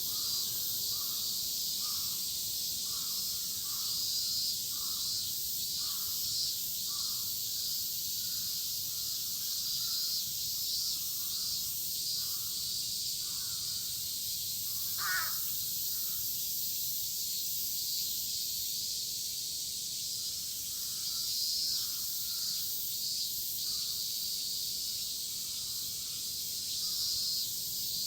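A chorus of cicadas droning steadily, with a crow cawing in runs of short, quick calls, most densely over the first several seconds. There is one louder, sharper call about halfway through.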